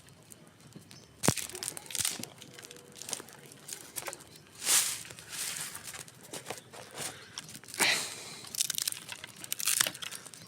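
Wood campfire crackling irregularly, with a sharp pop about a second in and denser bursts of crackle around the middle and near the end.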